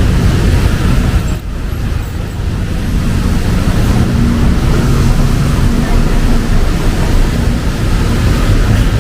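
Street traffic in heavy rain: car and bus engines running close by over a steady hiss of rain and wet road, with a brief lull about one and a half seconds in.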